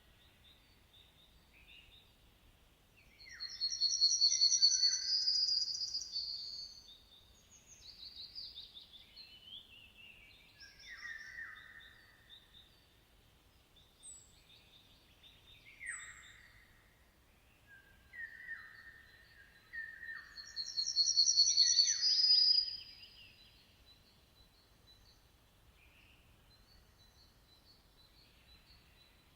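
Several songbirds singing. Two loud phrases of rapid high trilled notes come about four seconds in and again about twenty-one seconds in, with lower, shorter falling whistles and calls between them. It is quieter near the end.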